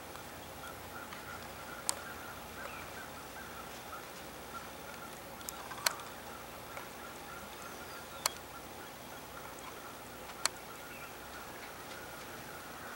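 Distant bird chatter over a steady outdoor hiss, broken by four sharp clicks spaced a few seconds apart.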